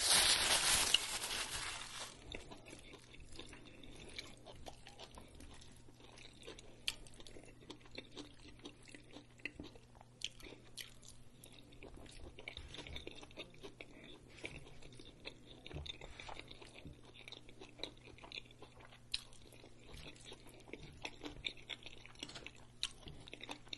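Paper crinkling in the hands for about the first two seconds, then a person chewing mouthfuls of a Chipotle smoked brisket bowl: many small wet mouth clicks and crunches.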